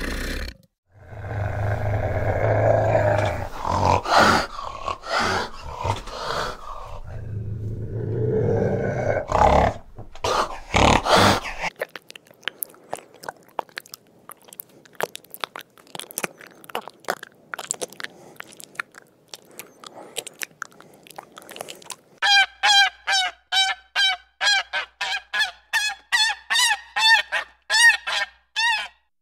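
A few loud, low animal calls, then a quieter stretch of faint rapid clicking, then a goose honking in quick succession, about three or four short calls a second, from about 22 seconds in.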